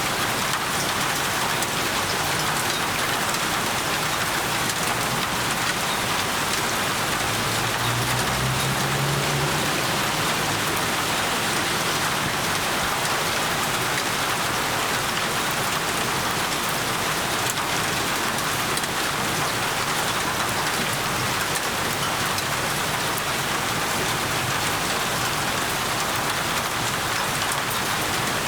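Steady heavy rain falling and pattering on surfaces, with a short low rumble about eight seconds in.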